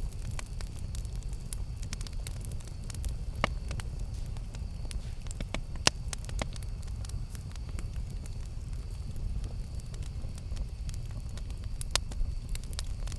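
Campfire burning with a steady low rumble and scattered sharp crackles and pops, the loudest pops about 3.5, 6 and 12 seconds in.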